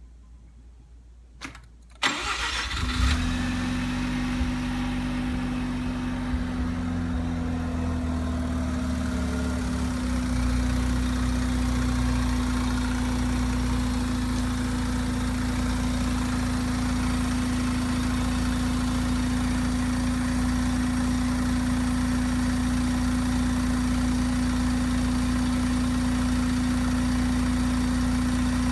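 Mazda RX-7 FD3S twin-turbo 13B twin-rotor rotary engine started about two seconds in, catching at once, then idling steadily with a constant hum under it.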